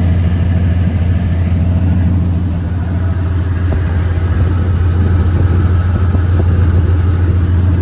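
A 1997 Ford F350 dump truck's 460 V8 gasoline engine idling steadily as it warms up.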